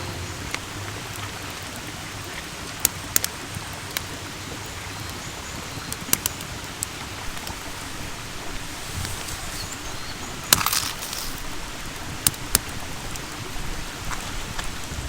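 Wood campfire crackling: a steady hiss with scattered sharp pops, and a longer crackling burst about ten and a half seconds in.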